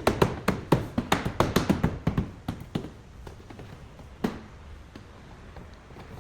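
A quick run of light taps and clicks, more than a dozen in the first two to three seconds, then a single louder tap about four seconds in.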